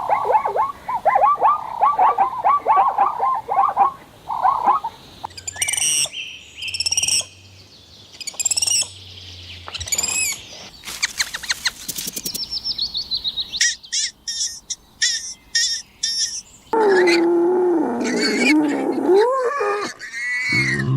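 A series of different animal calls, one after another. First come rapid repeated calls for about five seconds, then high bird chirps and a fast trill, then quick clicking chirps. About three-quarters of the way in, one long wavering call starts and runs for about three seconds.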